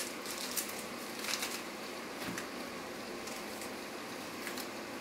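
Chicken gizzards frying in oil in a pressure-cooker pot, a steady low sizzle, with a few small knife clicks from an onion being cut by hand.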